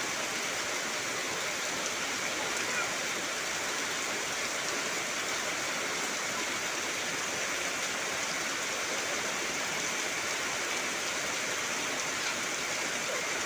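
Heavy rain falling steadily on trees and foliage: an even, unbroken hiss.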